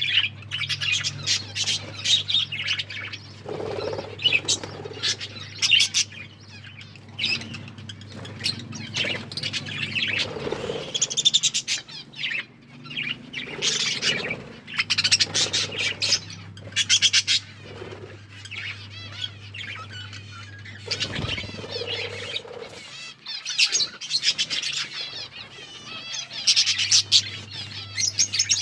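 A flock of budgerigars chattering with rapid chirps and warbling calls, in busy runs with short lulls. A low steady hum sits underneath, cutting out and coming back a few times.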